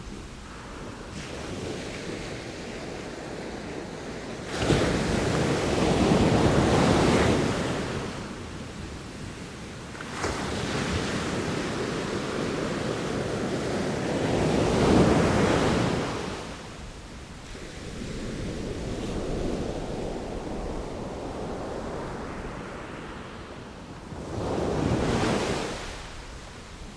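Sea waves breaking and washing in, the surf swelling and fading in several surges a few seconds apart, two of them starting suddenly about five and ten seconds in.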